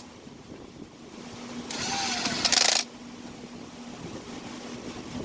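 Echo CS-305 chainsaw's recoil starter pulled once, about two seconds in: a quick whirring rush of the cord as the two-stroke engine turns over without catching.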